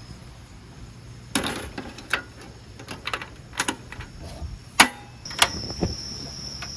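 A run of irregular knocks and clacks, about a dozen sharp hits unevenly spaced, the loudest near the end. A thin, steady high tone comes in about five seconds in.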